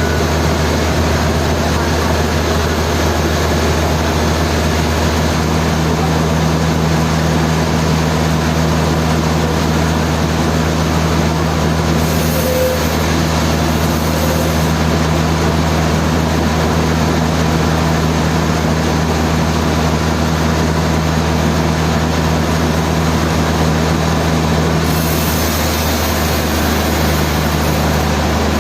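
Sawmill machinery running steadily: a constant low hum under an even wash of mechanical noise, with a brief hiss added twice, about halfway through and near the end.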